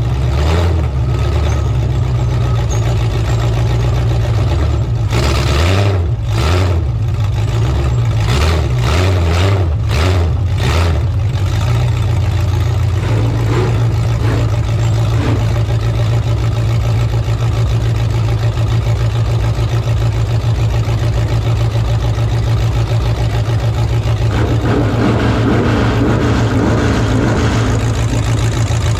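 Demolition derby truck engines running hard and revving, with several sharp bangs in the first dozen seconds, then a steadier loud engine drone.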